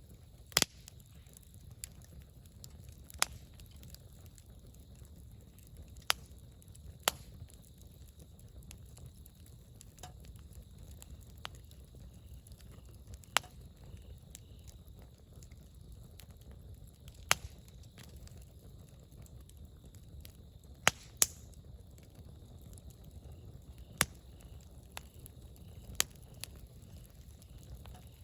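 Wood campfire burning, with sharp crackles and pops every second or few over a low steady rumble.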